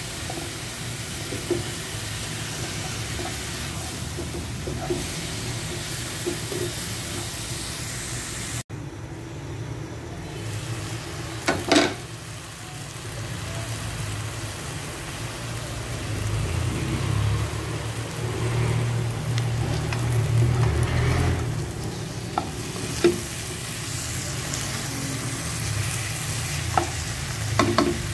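Pork ribs sizzling as they pan-fry in a wok, with a spatula stirring and knocking against the pan now and then, loudest about twelve seconds in.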